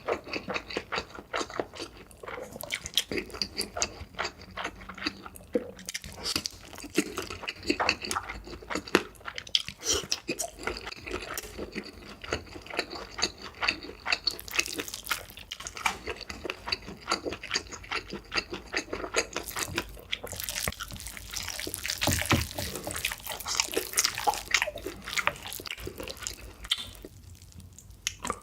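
Close-miked eating of ramen: wet chewing with many small sticky clicks, and longer slurps of noodles about halfway through and again about three-quarters in.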